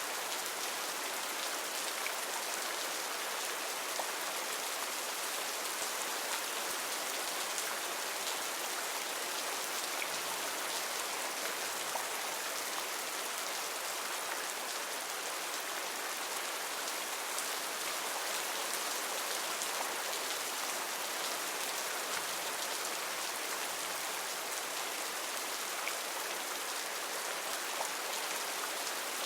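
Heavy rain falling steadily on rainforest foliage: a dense, even hiss with scattered individual drops ticking through it.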